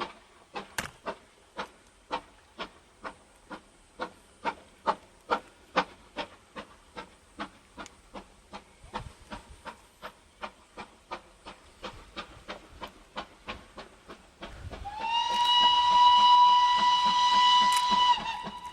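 Steam locomotive working, its exhaust beating in a sharp, even rhythm of about two to three beats a second that quickens slightly. About fifteen seconds in, its steam whistle sounds one long blast lasting about three seconds.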